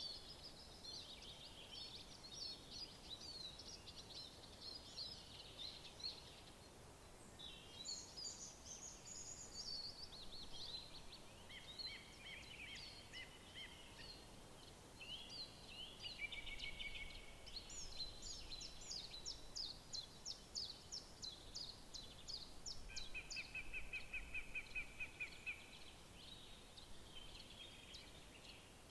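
Several songbirds singing in a woodland chorus: overlapping chirps and short phrases, with a rapid trill a little past two-thirds of the way through, over a faint background hiss.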